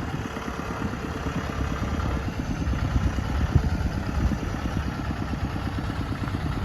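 Tractor's diesel engine running as it moves forward with a load of rice: a steady, rapid low chugging, with one brief louder knock about three and a half seconds in.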